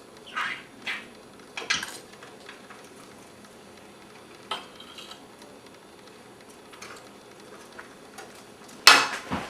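Scattered light clicks and clinks of small hard objects, a few in the first two seconds and one in the middle, then a louder clatter near the end.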